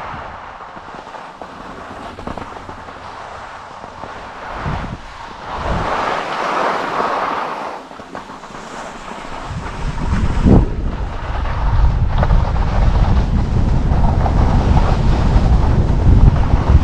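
Wind buffeting the microphone of a camera carried by a skier moving downhill, with the hiss of skis sliding on snow. The low wind rumble grows much louder about two-thirds of the way through as speed picks up.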